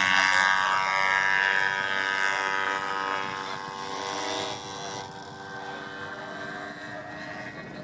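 Large RC model P-47's DA-85 gasoline engine and propeller running steadily, its pitch sinking slightly and the sound fading over the second half as the plane moves away.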